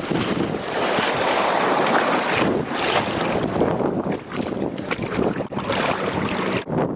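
Strong wind buffeting the camera microphone in gusts over the wash of surf, with a sudden brief dip near the end.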